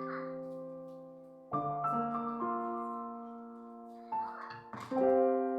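Soft background piano music: sustained chords that decay slowly, with a new chord struck about a second and a half in and another near the end.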